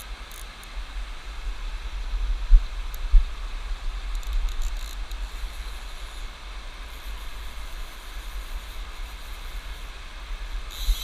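Steady rush of river water with a low rumble on the microphone, and two brief thumps about two and a half and three seconds in.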